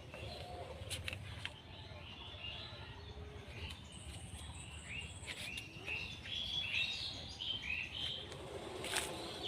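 Small birds chirping in a quick series of short, falling calls, thickest from about four to eight seconds in, with a few sharp clicks near the start and near the end.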